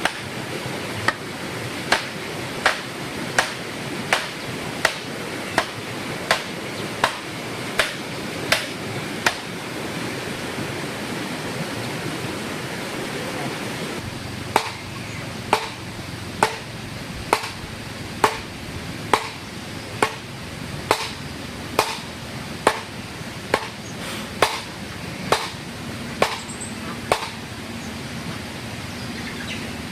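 Repeated sharp strikes of a hand tool, about one every 0.8 seconds, with a pause of about five seconds in the middle before they resume, over a steady background hiss.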